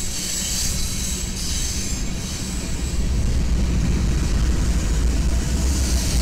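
BNSF freight train rolling past: covered hopper cars clatter by with a thin high wheel squeal. About three seconds in, a group of diesel locomotives in the train comes through, and a deep engine rumble builds and grows louder.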